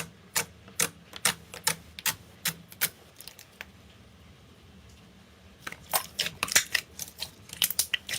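Slime being pressed and worked by hand, giving sharp clicking pops: a regular run of about two a second, a pause of a couple of seconds, then a quicker, denser cluster of clicks.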